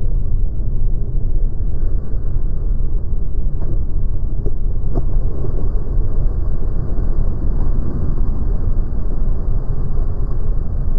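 Steady low rumble of a motorboat under way, with two faint clicks near the middle.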